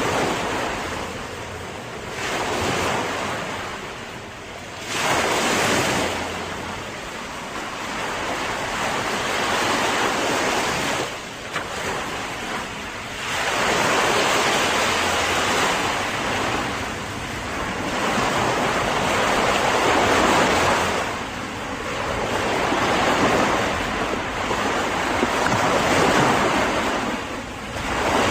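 Sea surf: waves breaking and washing, swelling and fading every few seconds.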